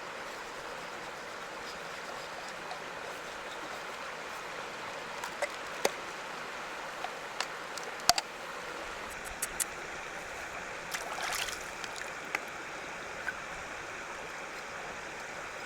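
Steady rush of flowing river water, with scattered sharp clicks and knocks through the second half and a short louder rush about two-thirds of the way in.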